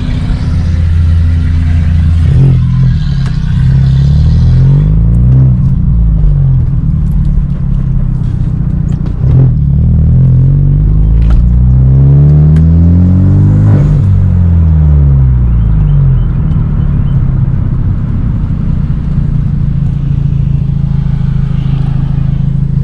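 Exhaust of a Hyundai Genesis Coupe 2.0T's turbocharged four-cylinder through a Tomei titanium single exhaust, heard while driving. The engine note rises and falls in pitch twice as the car accelerates through the gears, then settles into a steady drone while cruising.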